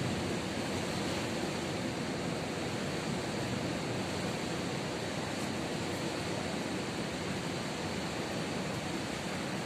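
Ocean surf washing steadily on the beach, an even rush without distinct breaks.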